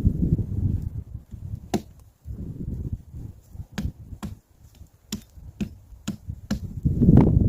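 A string of irregular sharp knocks and cracks, about a dozen, mixed with dull low thuds, the heaviest near the end.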